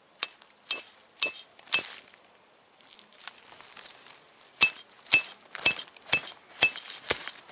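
A metal tent peg being hammered into the ground. Sharp, ringing metallic strikes come about two a second: five in the first two seconds, then a pause, then another run of strikes from just before five seconds in.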